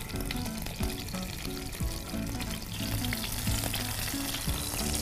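Stuffed bitter gourds sizzling in oil and ghee in a nonstick pan as they are laid in one by one, with background music.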